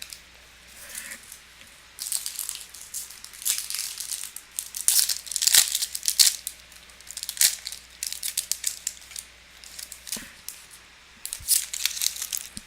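Foil trading-card pack wrapper crinkling and tearing in a run of short, irregular crackles as it is handled and opened.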